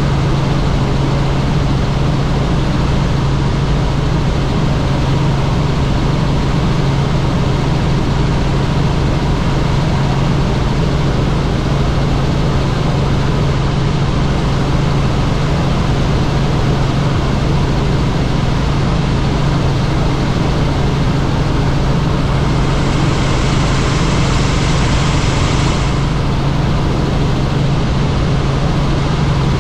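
Helicopter in flight: steady engine and rotor noise with a constant deep hum. Around three-quarters of the way through, a stronger hiss comes in for a few seconds.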